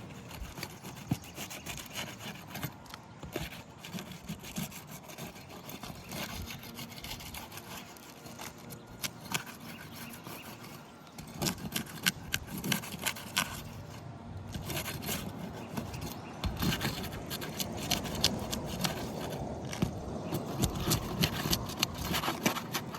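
Flat bar scraping and prying under roof shingles to break their seal, with irregular sharp clicks and scrapes that grow busier and louder in the second half.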